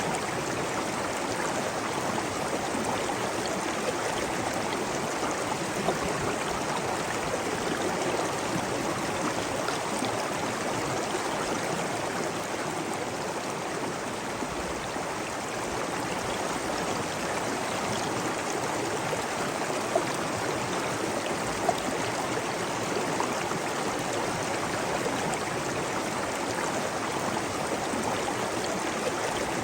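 Steady rush of flowing water, as of a stream or waterfall, with a few brief ticks of splashing droplets.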